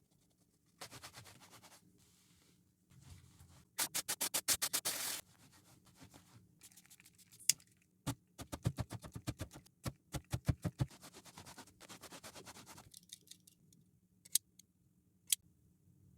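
Scrubbing a shoe with a brush in several bursts of quick back-and-forth strokes, about eight strokes a second at the fastest, with a few sharp ticks in between.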